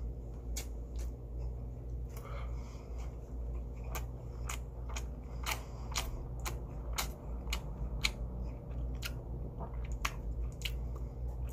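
A man chewing marinated pork ribs (dwaeji-galbi) close to the microphone, with sharp wet mouth clicks about twice a second, over a steady low hum.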